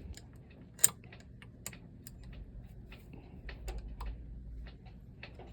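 Irregular light clicks and taps of hand tools and small engine parts being handled, a few a second, with one sharper click about a second in.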